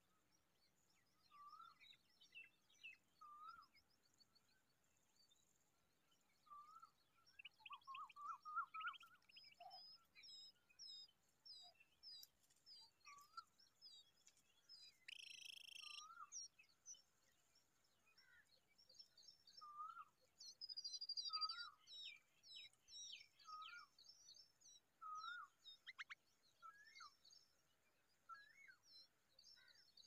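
Faint calls of several wild birds. One short rising note repeats about every two seconds under many quicker high chirps, with a fast trill early on. A brief hiss comes about halfway through.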